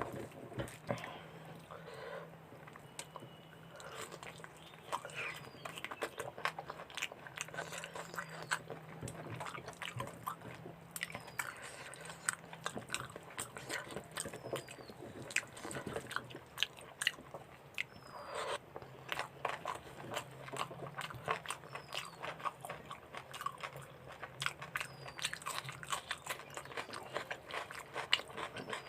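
Close-up chewing and biting of mutton curry and rice: many wet mouth clicks and smacks in an irregular stream, over a faint steady low hum.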